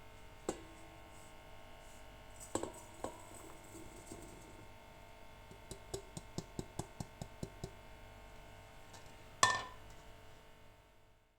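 Kitchen utensils tapping and clinking: a few separate knocks, then a quick run of about a dozen light taps at roughly six a second, then one loud clank that rings briefly.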